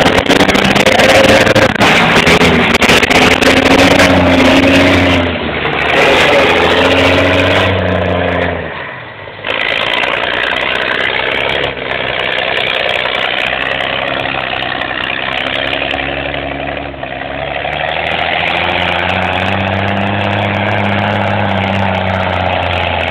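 Deuce-and-a-half army truck engine working hard, its pitch climbing and falling several times as it is revved and eased off, and dropping away sharply once about nine seconds in before picking up again. Rattling knocks run through the first few seconds.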